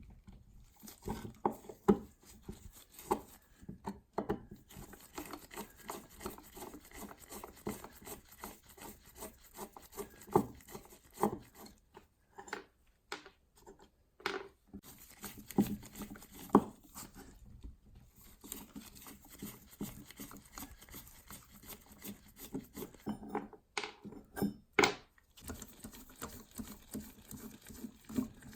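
Hand work on an antique ship's compass: irregular scraping and rubbing with scattered sharp knocks and clicks.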